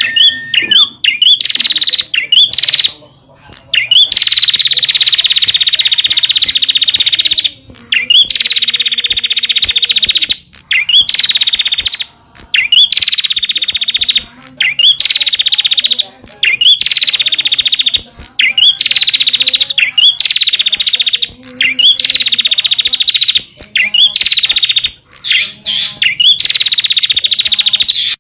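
Prenjak (prinia) song of the kind used as a lure and master call: a series of loud, buzzing trills, each opening with a quick rising note and held for one to three seconds, with short breaks between.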